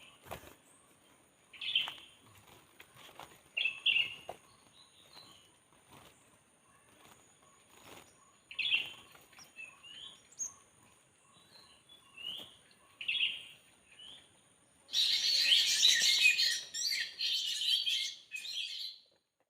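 Small birds chirping in short calls every few seconds, then about four seconds of dense, harsh bird chattering near the end.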